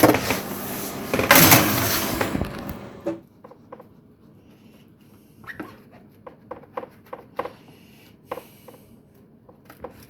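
Kitchen handling noises as a dish goes into the oven: a loud rush and clatter for about the first three seconds, then a series of light clicks and knocks, like an oven door and its controls being worked.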